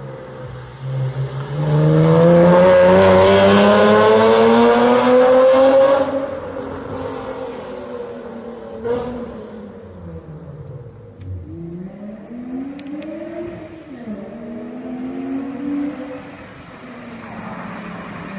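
BMW E46 coupe's straight-six, straight-piped with a catless header, accelerating hard with a loud exhaust note rising in pitch for about four seconds, then dropping off sharply as the car passes. After that, quieter revs rise and fall twice more and fade away.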